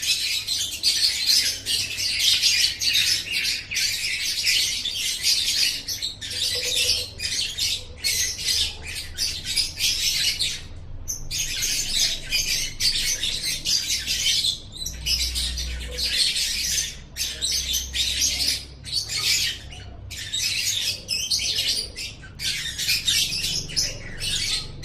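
Lovebird singing a rapid, almost unbroken high-pitched chattering song, pausing briefly twice.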